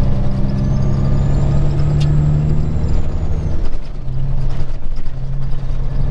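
Peterbilt 379 semi truck's diesel engine running, heard inside the cab. Its steady low note fades about two-thirds in and picks up again. A faint high whine rises and falls over the first half.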